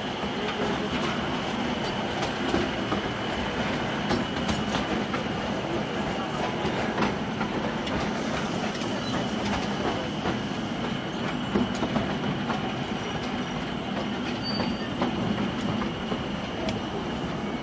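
Akasawa Forest Railway's small narrow-gauge train on the move, with steady running noise, a steady high-pitched tone, and scattered clicks from the wheels on the rails.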